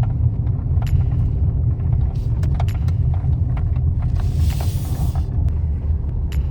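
Truck driving slowly, a steady low engine and road rumble with scattered clicks and rattles and a brief hiss a little past halfway.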